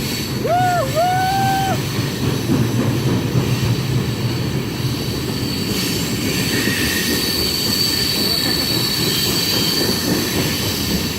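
Train cars rolling past on the rails: a steady rumble with a thin, high-pitched wheel squeal that grows stronger about halfway through.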